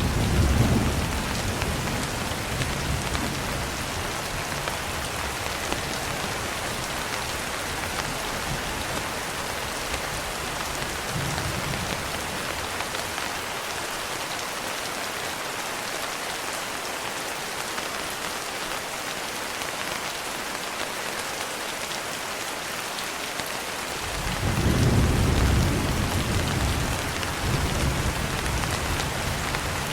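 Steady rain with rolling thunder: a low rumble right at the start, a short one about eleven seconds in, and a longer, louder one starting about twenty-four seconds in.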